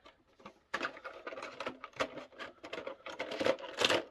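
Foil wrapper of a Pokémon card booster pack crinkling and rustling as it is handled and opened, starting about a second in and getting louder toward the end.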